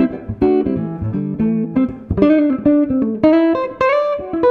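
Steinberger headless electric guitar being played, a quick run of plucked single notes and chords, several notes a second.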